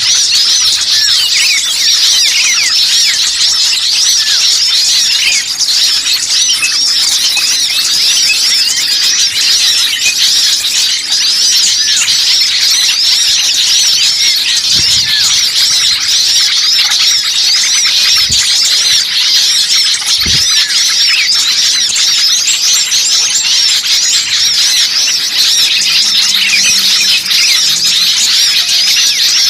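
Dense, continuous chorus of many small songbirds chattering and chirping at once, rapid high-pitched calls overlapping without a break: a bird-lure recording of agitated small birds.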